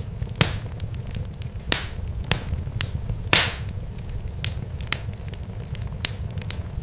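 Irregular sharp crackles and pops over a steady low rumble, like a burning fire; the loudest pop comes about three and a half seconds in.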